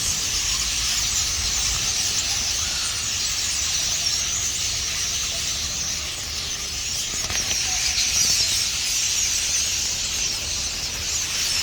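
A large flock of birds roosting in trees, hundreds calling at once in a dense, continuous high-pitched chatter.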